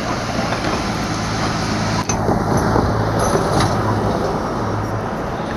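A vehicle running past with a steady low hum, and one sharp clack about two seconds in.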